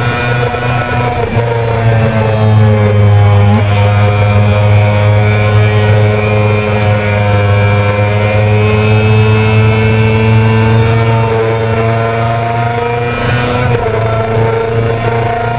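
A 2000 Yamaha YZF-R6's 600 cc inline-four engine running hard at high revs on a track lap. Its pitch sags and climbs slowly as the throttle changes through the corners.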